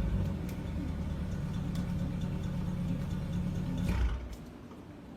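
Lamborghini Urus twin-turbo V8 with a Fi EXHAUST valvetronic exhaust idling steadily. About four seconds in the note swells briefly, then drops away to a much quieter level.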